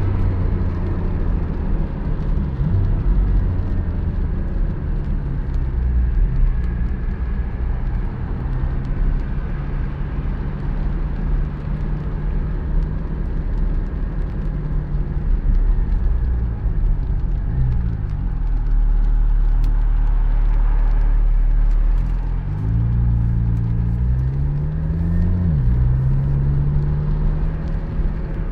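Porsche 718 Spyder's 4.0-litre flat-six engine running under way with tyre and road noise. Its note holds steady for stretches, then drops and climbs again several times as the revs change through the gears.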